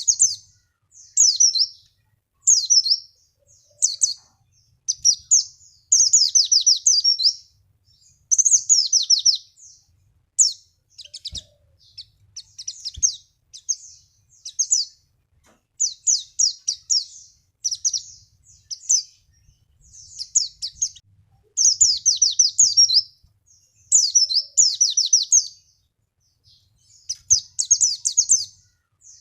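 White-eye (pleci) song: high, rapid twittering and trilled phrases about a second long, one after another with short gaps. It is a lure song (pancingan) meant to get caged white-eyes to answer and sing.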